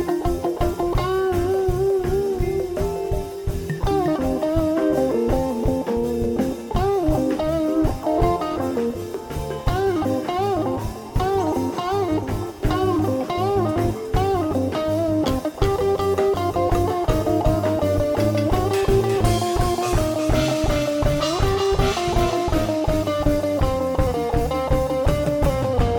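Live rock band playing an instrumental break: a lead electric guitar with bent, wavering notes over bass guitar and a drum kit.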